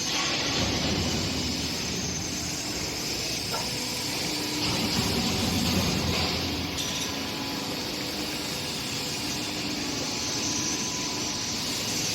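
Three-roll profile bending machine running: a steady mechanical hum and hiss.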